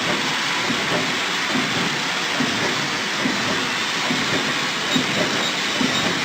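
Plastic bag-making machine running: a steady hiss and hum with repeated soft knocks from its working cycle.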